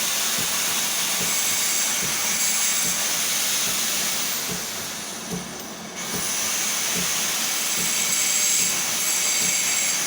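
Machine tool running steadily while cutting a metal bezel, a loud hiss with a faint high whine. It dips for a moment about four seconds in, with a falling high whine, then picks up again.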